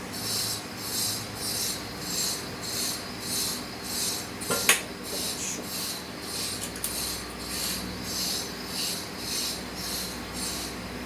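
Ceiling fan motor running once power and capacitor are connected: a low hum under a rhythmic rasping swish that repeats about two and a half times a second. One sharp click sounds a little before halfway through.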